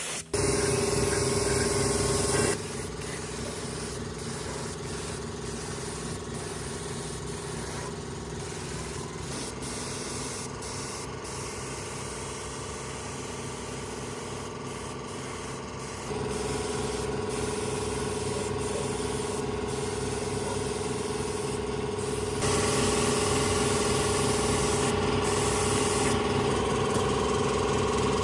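A motor running steadily with a rapid, even pulse, its level and pitch stepping up or down abruptly several times.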